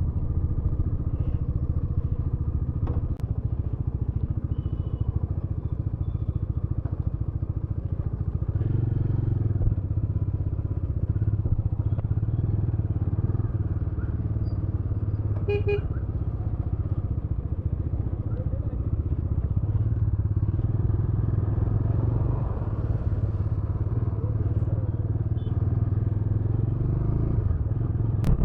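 Motorcycle engine running steadily while riding, its low hum growing stronger about eight seconds in. A brief high-pitched beep comes about halfway through.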